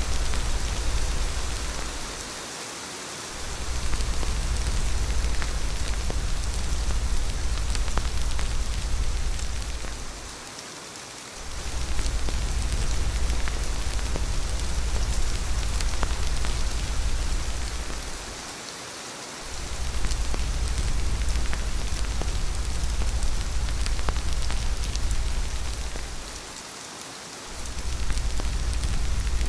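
Steady rain hiss with a deep rumble underneath. The rumble drops out for about a second roughly every eight seconds, four times.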